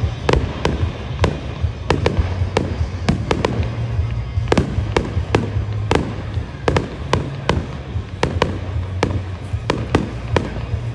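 Aerial fireworks going off in quick succession: a dense, irregular run of sharp bangs and cracks, several a second, some with a short echoing tail.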